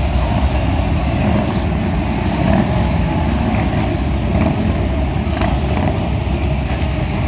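Several motorcycle engines running, a steady low rumble.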